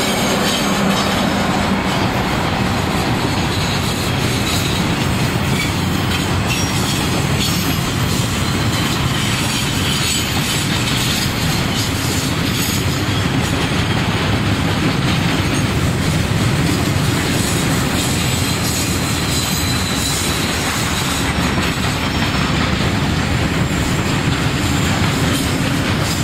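Freight train rolling past close by: the last of its two EF-class electric locomotives goes by at the start, then container flat wagons follow in a steady, loud rumble of steel wheels on rail.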